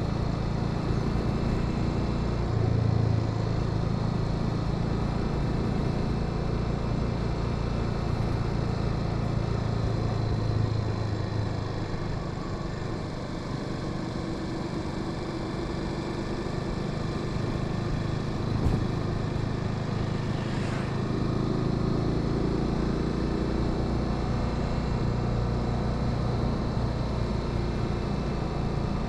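Honda Sahara 300 motorcycle engine running as the bike rides along, with wind and road noise. The engine note eases off around the middle, then picks up again.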